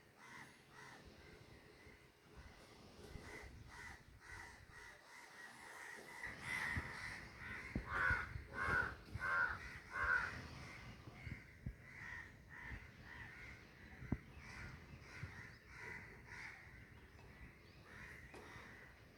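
Crows cawing again and again, with a run of four loud caws about eight to ten seconds in.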